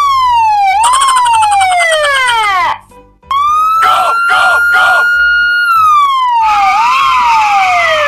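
An emergency-vehicle siren wailing in two cycles: each time it rises, holds a high note, then glides down with a short upward kick before falling away, with a brief break between the cycles. A low, steady beat of background music runs underneath.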